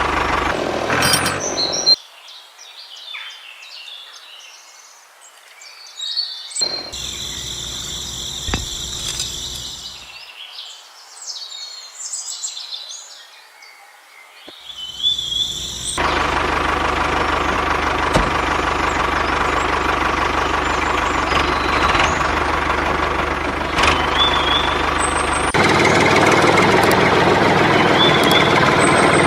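Birds chirping in a quiet open-air stretch, then, about halfway through, a steady running engine that grows a little louder near the end.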